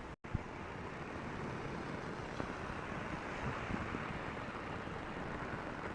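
Torrential rain falling steadily, an even hiss of heavy rain on the ground and nearby surfaces, after a brief cut-out just at the start.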